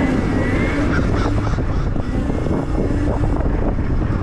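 Riding an electric dirt bike with a 72-volt Electro & Co conversion kit: wind buffeting the microphone and road noise, with a faint rising motor whine about a second in.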